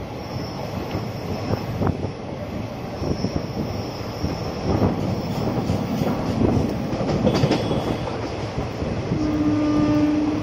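A moving train heard from on board: the steady rumble of wheels running on the rails, with irregular knocks and rattles. A steady pitched tone sounds for about a second near the end.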